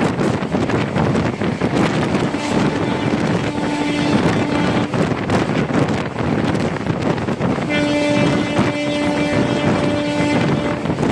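Wind rushing over the microphone and the running noise of a passenger train's coach wheels on the rails, heard from an open coach door at speed. Two long steady tones sound over it, each lasting about two and a half seconds, a few seconds apart.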